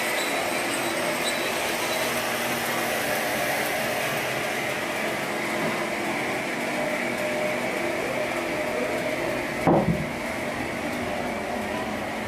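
Sawmill machinery running steadily with a constant mechanical hum, and a single short thump about ten seconds in.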